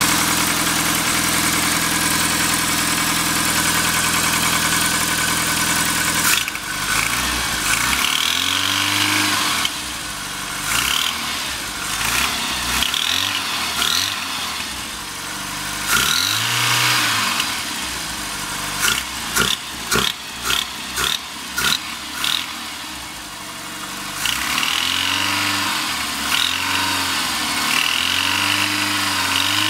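Rover Mini Cooper MPi's 1275 cc four-cylinder A-series engine idling steadily, then blipped on the throttle again and again, the revs rising and falling, with a run of quick sharp blips about two-thirds through. A harsh metallic knock comes in only as the throttle opens and goes when the revs hold steady or drop; its cause is not known.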